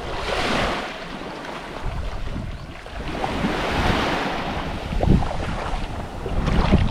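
Sea waves washing onto a beach, swelling and fading twice, with wind buffeting the microphone.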